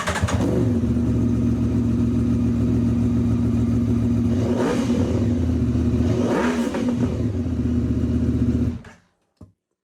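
2019 Aprilia Tuono 1100 Factory's V4 engine, breathing through an Aprilia accessory exhaust, catching just as it starts and settling into a steady idle. It is revved twice, about four and a half and six and a half seconds in, each rev rising and falling back to idle. It shuts off suddenly about nine seconds in.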